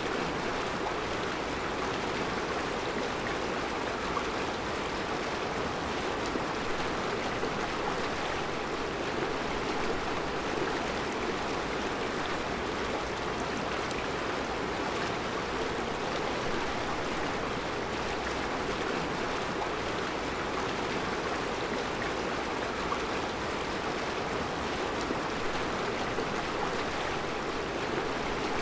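Mountain river rushing steadily over round rocks in a rocky bed: an even, unbroken wash of water noise.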